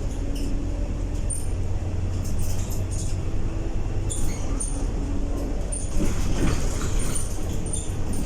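Scania K230UB bus heard from inside the cabin: the engine and drivetrain running with a steady low rumble and a faint steady tone, and light clicks and rattles from the bodywork throughout.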